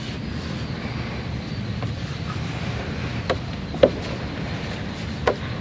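Wind buffeting the microphone: a steady low rumble, with a few brief faint sounds a little past the middle and near the end.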